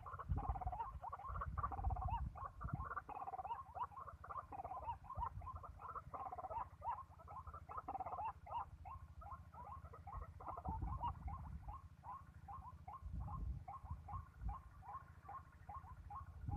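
White-breasted waterhen calls: a rapid series of short, repeated croaking notes, thick at first and settling into a steady run of about three a second. Low rumbling comes and goes underneath.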